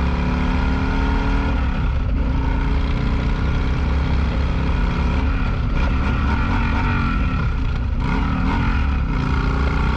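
Motorcycle engine running under way, its pitch rising and falling with the throttle, over a steady low rumble of wind and road noise as heard from an on-bike camera.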